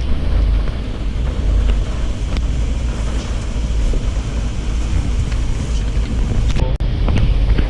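A vehicle driving through deep floodwater and mud, a steady low rumble with heavy wind buffeting the microphone. The sound briefly cuts out near the end.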